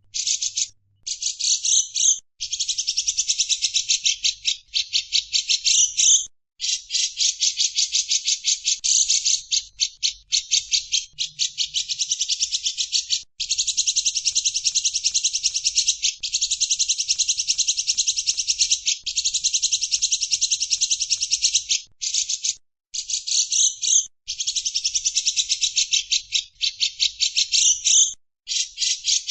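Recorded songbird chattering in long, high-pitched rattling trills of many rapid notes a second. The phrases last from about one to several seconds, with short breaks between them.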